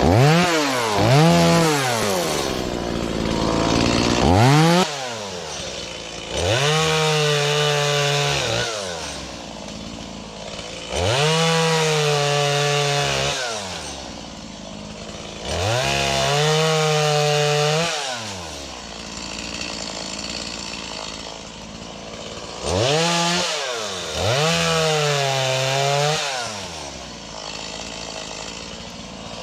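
Stihl MS180 chainsaw's 31.8 cc two-stroke engine revved to full throttle about six times, each burst held for one to two seconds before dropping back to idle, while limbing a felled oak.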